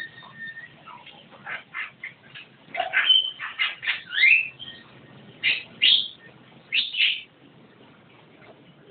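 Javan myna calling in a rapid run of short notes and upward-sliding whistles, loudest through the middle, then dropping away about seven seconds in.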